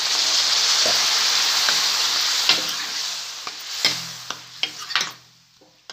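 Sliced onions and tomatoes sizzling hard in a hot kadai just after a splash of water is added. A steel ladle stirs and knocks against the pan several times. The sizzle dies away over the last couple of seconds.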